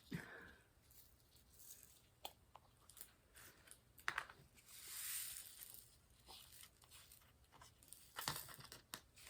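Faint handling noises: scattered small clicks and a soft plastic rustle that swells briefly about halfway through.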